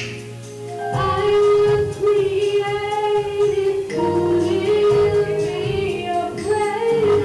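Church music: a woman singing held notes over sustained instrumental accompaniment. The music dips at the start and comes back in about a second in.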